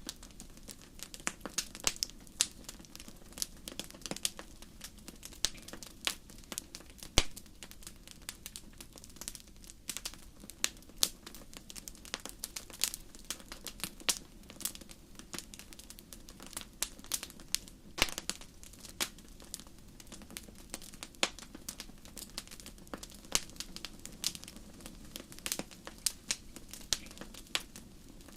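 Wood campfire crackling, with irregular sharp pops and snaps, some louder than others, over a steady low rush of burning flames.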